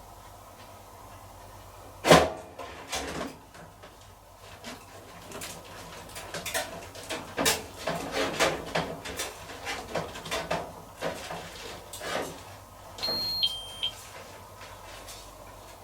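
Miele T1 heat-pump tumble dryer with a load of towels, its drum giving irregular knocks and clicks over a low steady hum. About thirteen seconds in, a short falling two-note electronic beep sounds, signalling that the drying cycle has finished.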